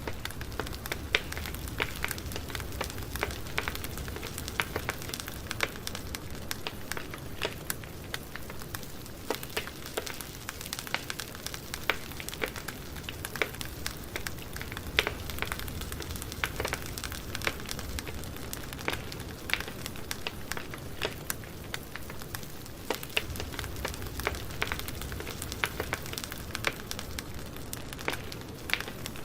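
Campfire burning with a steady hiss and low rumble, wood crackling and snapping in frequent small clicks with a few louder pops.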